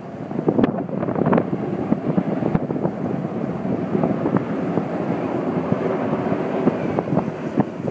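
Wind buffeting the microphone: a steady rumbling noise with frequent irregular pops.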